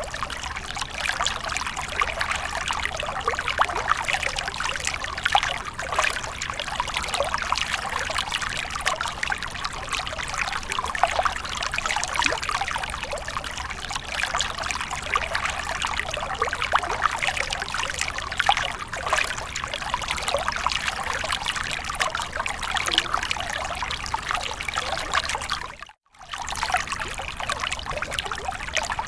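Water splashing and trickling steadily: a dense, even rush of many small splashes. Near the end it cuts out for an instant and then resumes.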